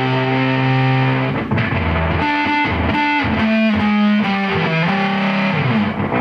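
Electric guitar, a Squier Jazzmaster, played through a Julungas Microwaves triple fuzz pedal with a little reverb: a held fuzzed note rings for about a second, then a quick run of single notes moves up and down, settling on another held note near the end.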